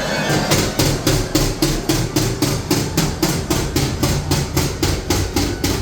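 Ghost train ride sounding with fast, even knocking, about four strikes a second, over a low hum; the knocking starts about half a second in.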